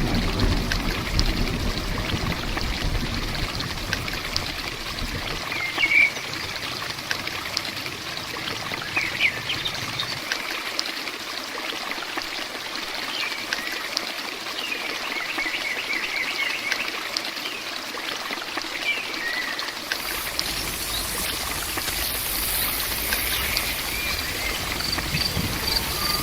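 Steady heavy rain with water trickling and running. A low rumble fades out in the first few seconds, and short high chirps come through now and then.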